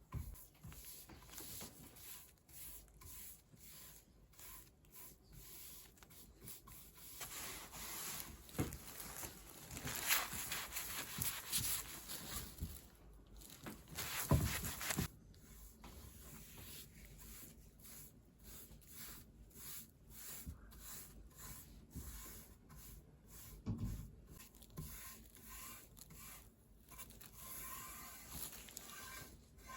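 Faint rubbing and scraping of hand DIY work, in irregular strokes that grow louder and busier around the middle, with a few sharper knocks.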